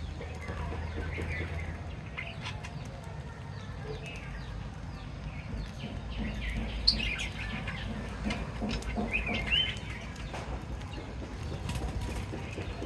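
Small cage birds chirping and twittering in quick, scattered calls, with wings flapping and small clicks among them.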